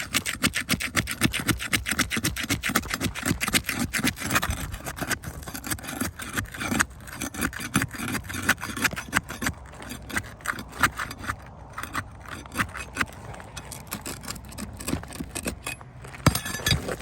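Asphalt roof shingles being pried apart, their sealed tabs torn loose from the shingle beneath. It makes a fast run of scraping and crackling for the first few seconds, then slower, irregular scrapes.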